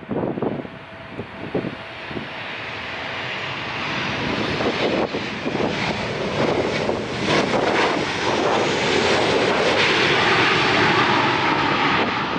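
An airliner's engines growing steadily louder as it comes closer, loudest a few seconds before the end, with a pitch that bends as it passes. Gusts of wind buffet the microphone in the first couple of seconds.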